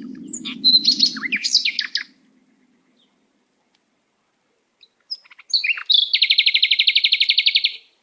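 Songbirds chirping: a quick cluster of high chirps in the first two seconds, then after a silent gap a few more chirps and a rapid, even trill lasting about two seconds that stops just before the end. A low steady hum sits under the opening second and a half.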